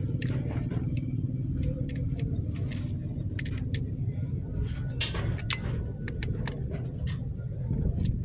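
A motor vehicle engine running steadily, with scattered metallic clinks and taps like tools or small metal parts being handled.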